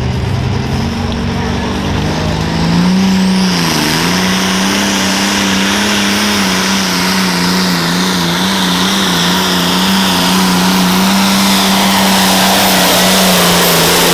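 Pulling tractor's engine revving up about three seconds in, dipping briefly, then held at high throttle with a slight waver in pitch. A thin high whistle rises with it and stays on top.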